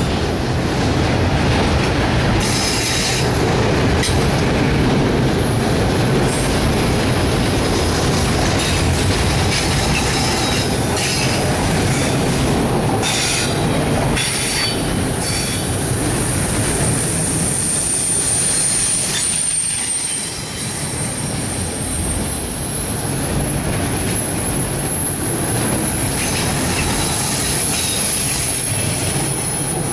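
Autorack freight cars rolling past with a steady rumble, their wheels squealing as they take a curve: short high squeals in the first half, then one long high squeal from a little past halfway.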